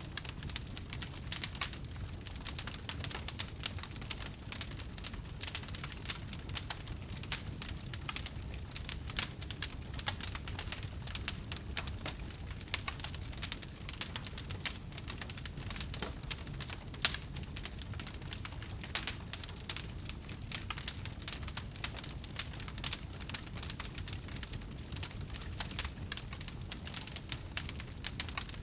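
Wood fire crackling steadily, with dense small snaps, a few louder pops and a low steady rumble underneath.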